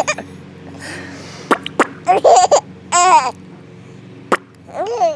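Baby laughing in short high-pitched bursts, squeals that fall in pitch, among her first laughs; a few sharp clicks between them.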